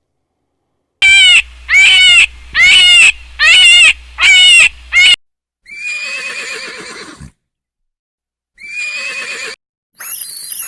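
A farm animal calling loudly: six short calls in quick succession, then two longer calls and a short high-pitched call near the end.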